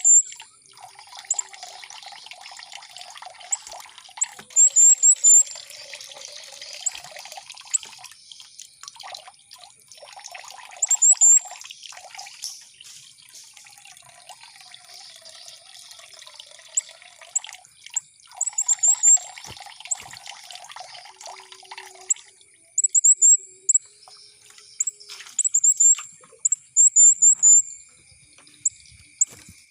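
Running water trickling and babbling, with runs of very short, sharp, high bird chirps in quick series every few seconds, the loudest sound throughout. These are courting calls of a mating songbird pair, the 'mantenan' sound played to raise caged birds' breeding drive. A thin steady high tone runs behind.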